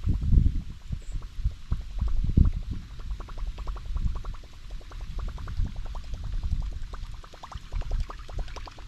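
Water sloshing against a kayak's hull, with gusty wind rumbling on the microphone and a fast, even ticking throughout.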